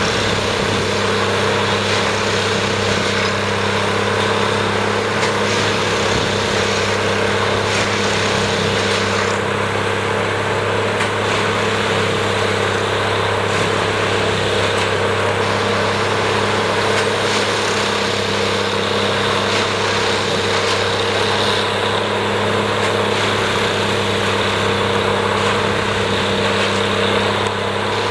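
Plasser & Theurer Duomatic 08-32 ballast tamping machine working track ballast, its engine and machinery running with a steady, unbroken low hum and a few faint knocks.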